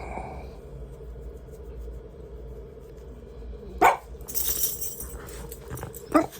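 A dog barking twice, sharply, about four seconds in and again near the end, over a steady low hum.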